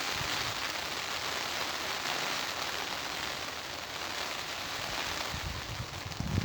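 Rain falling steadily, an even hiss of drops on the garden's surfaces, with no wind gusts at this moment.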